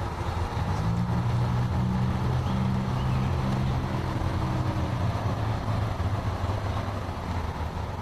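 An engine idling steadily: a low droning hum that shifts slightly in pitch about a second in.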